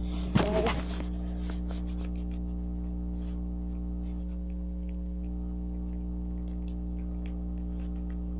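Steady electrical hum, with a short pitched cry about half a second in, then light clicks and rustles of trading cards being handled.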